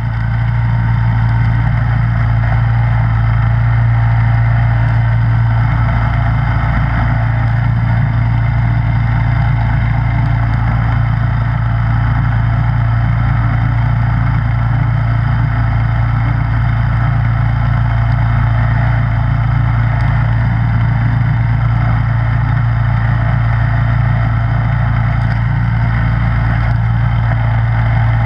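Snowblower engine running steadily at an even speed.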